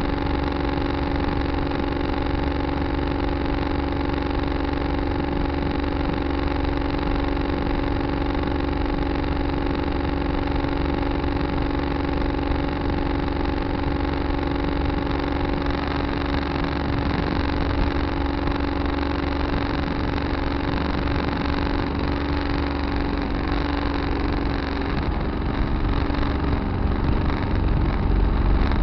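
Tractor engine running steadily, heard from a dash camera mounted on the tractor; near the end it gets a little louder and rougher.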